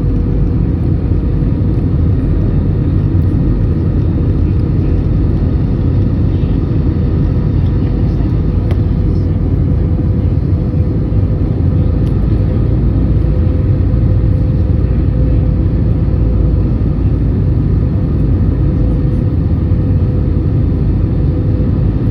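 Steady low roar of a jet airliner heard from inside the passenger cabin: engine and airflow noise with a faint steady hum running through it.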